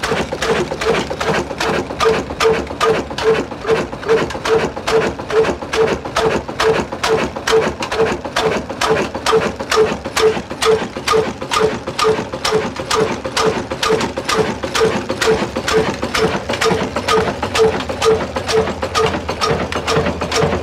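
Old heavy black diesel engine of the Ruston Hornsby kind running steadily at slow speed, with an even beat of about three knocks a second.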